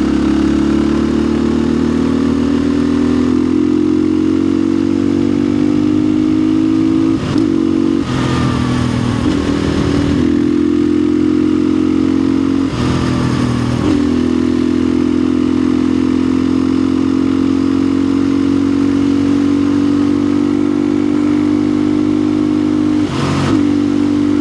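Orion RXB250XL 250cc dirt bike engine running steadily on the move, its pitch slowly rising. The note dips briefly about five times as the throttle is eased and picks up again.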